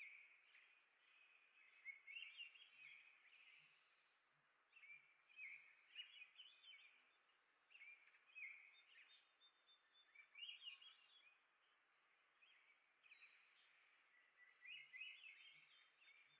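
Faint chirping of small songbirds, with a short warbled song phrase repeating every four seconds or so.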